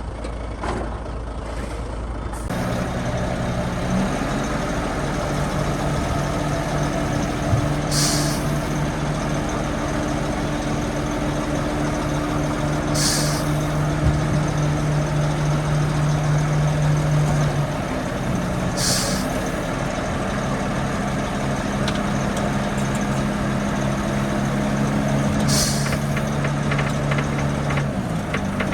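Heavy diesel engine of an earthmoving machine running steadily, with four short hisses of released air spaced about five to six seconds apart, like air-brake releases.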